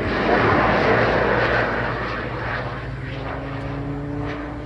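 Aerobatic display aircraft's engine, loudest in the first second and a half, then running on as a steadier engine note while it climbs.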